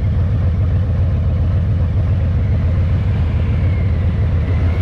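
Harley-Davidson Heritage's V-twin engine running with a steady, deep, low rumble.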